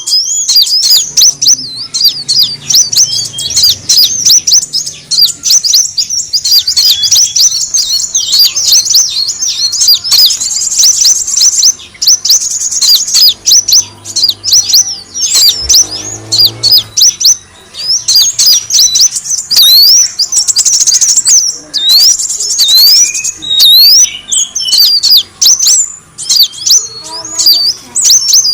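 Kolibri wulung sunbirds giving a dense, continuous stream of rapid high-pitched chirps and twitters. This is a lure call (suara pikat) used to draw wild birds in.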